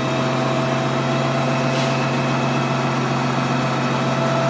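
Steady machine hum, an engine or motor running at a constant speed with a few fixed tones and no change in pitch.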